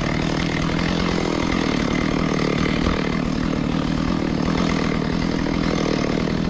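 Small engine of a hand-held brush-clearing tool running steadily at a constant speed.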